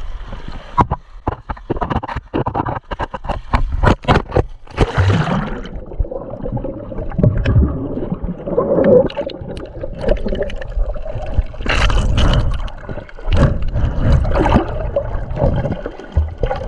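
Shallow seawater sloshing and splashing close to the microphone, with scrapes. A quick run of sharp clicks comes in the first few seconds, followed by an uneven wash of water with occasional louder splashes.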